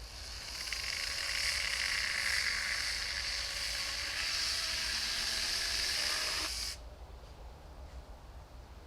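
A steady hiss lasting about seven seconds, with a faint tone under it, that cuts off suddenly.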